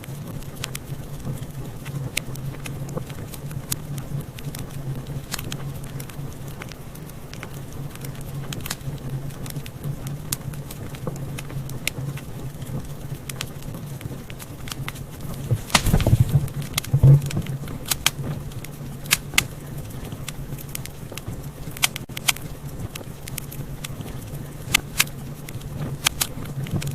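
Wood fire in a fireplace crackling: frequent sharp pops and snaps over a steady low hum, with a burst of louder pops about two-thirds of the way through.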